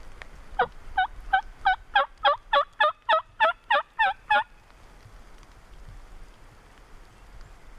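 A run of about a dozen evenly spaced turkey yelps, starting about half a second in and lasting about four seconds, over a low steady rumble.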